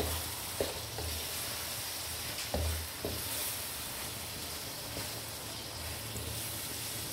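Boiled chana dal frying in oil and tomato masala with a steady sizzle as a wooden spoon stirs it around the wok, with a few soft knocks of the spoon against the pan.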